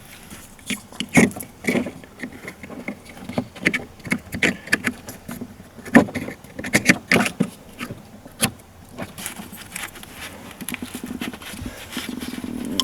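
Irregular clicks, taps and small rattles of hand work on parts as a new fuel pump control module is fitted and its connector handled.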